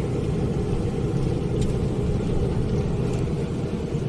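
Heavy truck's diesel engine running steadily as the truck drives along.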